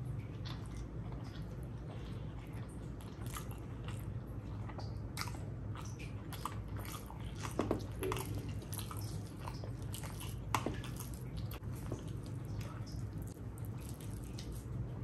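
A person chewing and biting mouthfuls of rice and curry with wet mouth smacks and clicks at an irregular pace, a sharper click about eight and about ten and a half seconds in. A steady low hum lies underneath.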